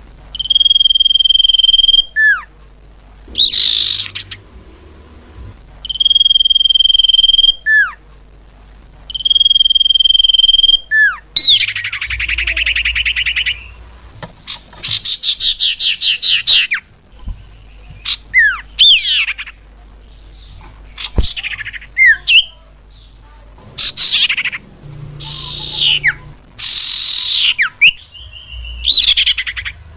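Cipau bird song played as a lure call: three long level whistles, each ending in a quick falling note, then a run of varied chirps, downward sweeps and rapid trills.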